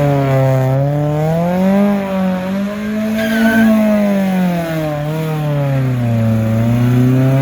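Car engine revving up and down, its pitch swelling and sinking smoothly several times, with a brief high squeal a little over three seconds in.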